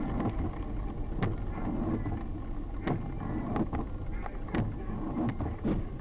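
Car running on the road, heard from inside the cabin: a steady low engine and road rumble with a few sharp clicks or knocks spread through it.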